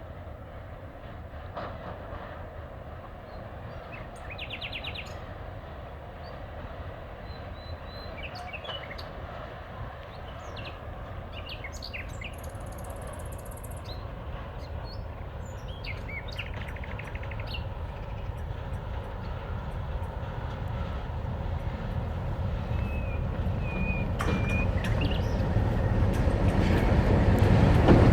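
Low diesel rumble of an approaching freight train's EMD G16 locomotive, growing steadily louder, with birds chirping and trilling now and then over it.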